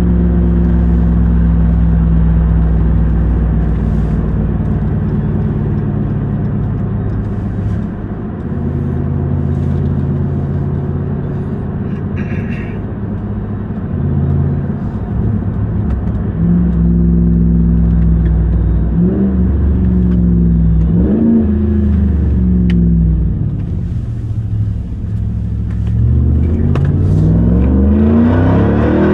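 Supercharged 6.2-litre Hemi V8 of a 2021 Ram 1500 TRX pickup running on the move. The engine note holds steady, steps in pitch a few times, rises and falls around two-thirds through, and climbs as the engine revs up near the end.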